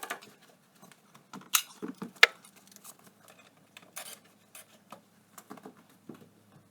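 Irregular clicks, clinks and knocks of hand tools and metal parts being handled while an ATV is taken apart, with one sharp click about two seconds in.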